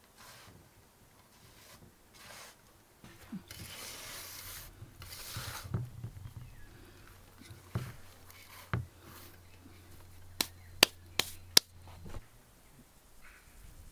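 Food-preparation handling sounds: a rustle, a few dull knocks, then four sharp clicks in quick succession.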